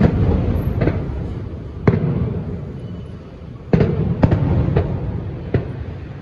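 Aerial fireworks shells bursting: about seven sharp bangs, each trailed by a rumbling echo. The loudest bang comes at the start, and a second loud cluster follows about four seconds in.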